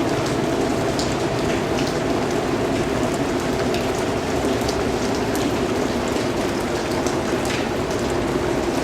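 Steady rain, a constant hiss with scattered sharper taps of individual drops.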